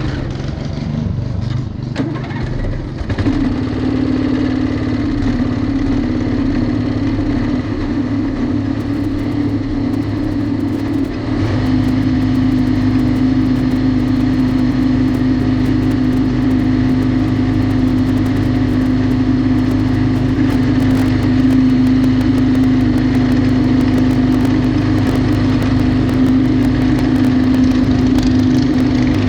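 Riding lawnmower's small engine running steadily at a fixed pitch, uneven for the first few seconds, then louder from about eleven seconds in.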